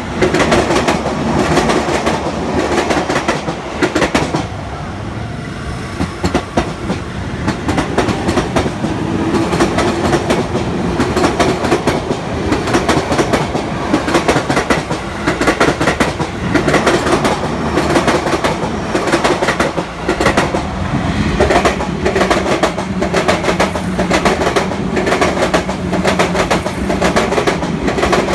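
Train wheels clattering over rail joints as the cars pass: a long run of rhythmic clickety-clack over a steady motor hum, easing off briefly about five seconds in before the clatter resumes.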